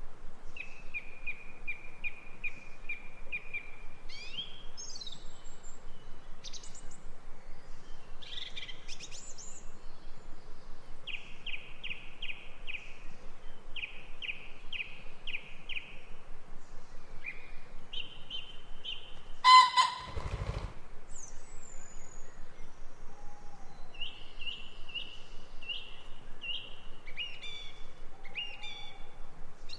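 Several songbirds singing: quick repeated trills and short rising and falling chirps over a steady background hiss. About two-thirds of the way through, a single loud call lasting about a second stands out above the rest.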